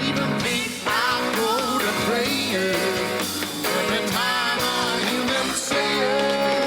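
Live rock band playing with a male lead vocal singing over guitar, bass and drums.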